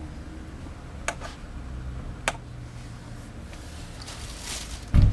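Evanix Blizzard side-lever air rifle being handled and worked: two sharp clicks a little over a second apart, a short hiss, then a loud, heavy thump near the end.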